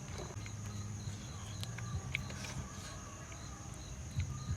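Insects calling: a steady high-pitched buzz with a regular chirp about three times a second, over a low hum and a few faint clicks.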